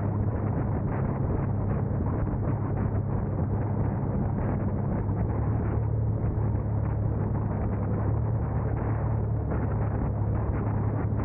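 A car driving at a steady pace: continuous road, engine and wind noise with a steady low hum and no change in level.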